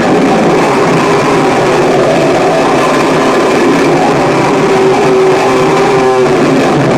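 Harsh noise music: a loud, dense wall of distorted noise with held droning tones buried in it, and a brief stuttering flutter about six seconds in.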